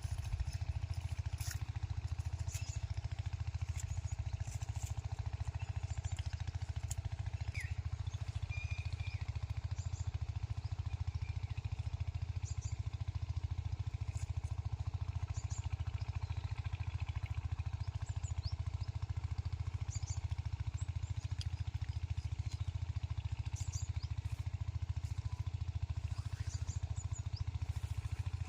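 Steady low rumble of wind on the microphone, with a few faint high chirps scattered through.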